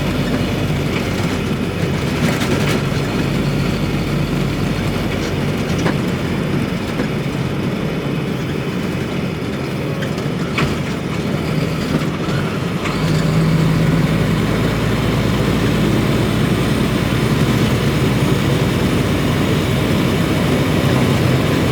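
Semi truck's diesel engine running and road noise heard inside the cab while driving, the engine getting louder about two-thirds of the way through. A few light clicks.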